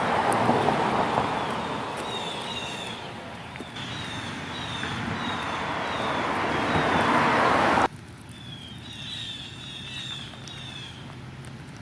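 A vehicle passing on the road: a noisy rush that swells and then cuts off suddenly about eight seconds in. Small birds chirp repeatedly in short falling notes throughout.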